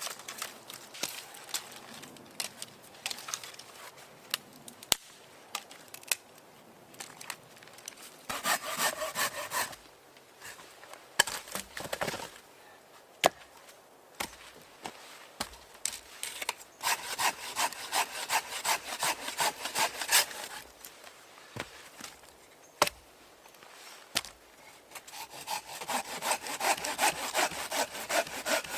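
Hand saw cutting through wood in three runs of quick back-and-forth strokes, with pauses and a few sharp knocks in between.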